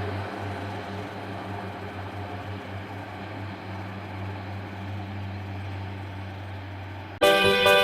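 Class 142 Pacer diesel multiple unit's underfloor diesel engine running with a steady low drone that eases slightly. Music starts abruptly near the end.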